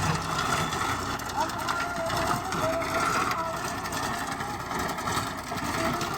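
Tractor engine running steadily while driving a rotavator through the soil.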